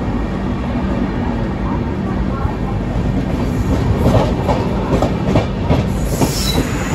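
Passenger train running on the rails, heard from on board: a steady rumble, with a quickening clickety-clack of the wheels over rail joints starting about four seconds in.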